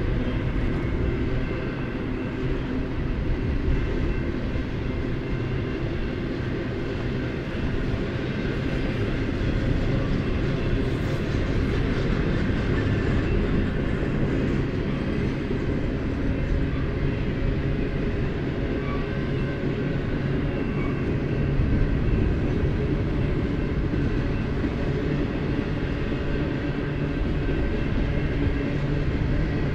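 Double-stack intermodal freight train's loaded well cars rolling past: a steady rumble of steel wheels on rail, with faint thin high tones over it.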